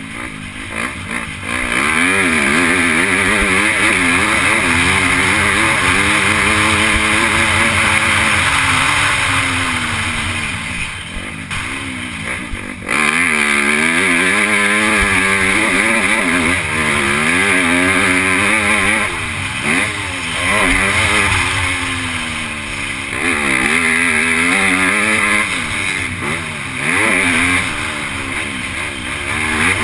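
Onboard sound of an MX2 motocross bike racing: the engine revs up and down constantly through the gears, with long stretches at full throttle broken by short drops in revs off the throttle, about eleven seconds in and several times near the end, over loud wind and engine noise.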